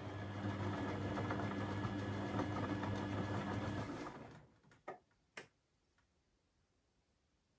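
Beko WMB 71643 PTE washing machine running mid-cycle, a whirring mechanical noise with a fine ticking texture. It dies away about four seconds in, two short clicks follow, then near silence.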